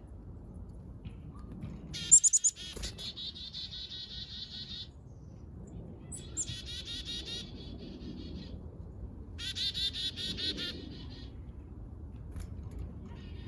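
Small songbird singing three trilled song phrases of rapidly repeated high notes, each lasting a couple of seconds. A quick burst of sharp clicks about two seconds in is the loudest sound.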